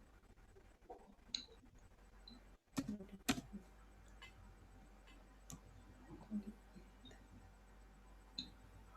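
Low steady hiss with a few sharp clicks, a cluster of them about three seconds in and one more about two and a half seconds later.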